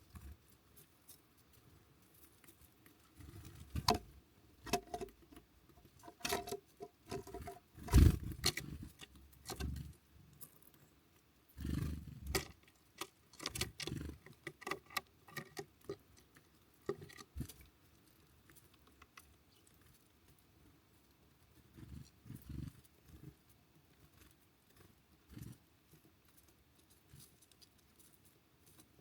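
Small birds working a feeder close to the microphone: irregular taps, pecks and scrabbling knocks on the feeder, with the loudest thump about a third of the way in and the activity thinning out in the second half.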